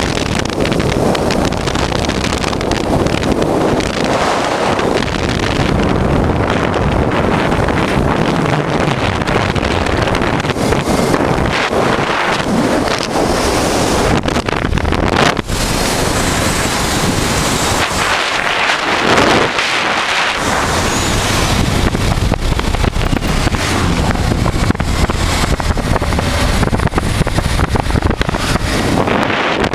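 Wind rushing and buffeting over the microphone on a moving motorcycle, with the 1988 Honda Transalp's V-twin engine running under it.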